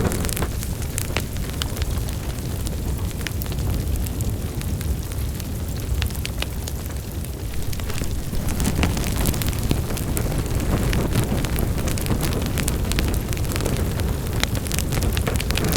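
Wood fire in a fireplace crackling, with many sharp pops and snaps over a steady low roar of burning.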